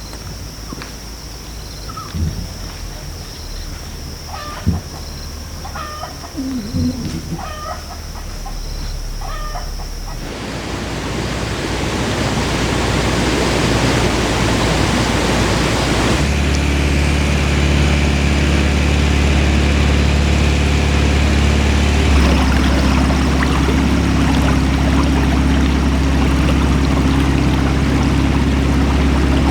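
Outdoor sound with a steady high whine, a few short repeated calls and knocks. About ten seconds in it gives way abruptly to a loud even rushing noise, and from about sixteen seconds an engine runs steadily under it.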